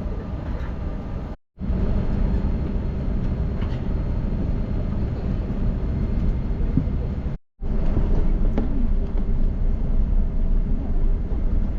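Steady low rumble of an Airbus A380's engines and rushing air, heard inside the passenger cabin. It drops out twice for a split second.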